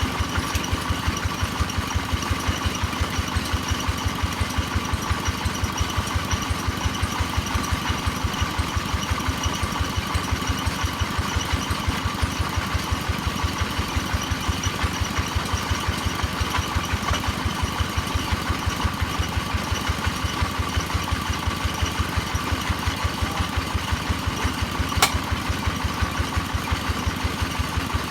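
Engine-driven hammer drilling machine running steadily, with a rapid, even knocking pulse throughout. A single sharp click comes about 25 seconds in.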